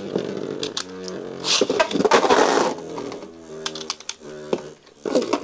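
Beyblade tops launched and clashing in a plastic stadium: rapid sharp clicks and knocks, with a hissing burst in the middle. A short stepped run of musical tones sounds twice.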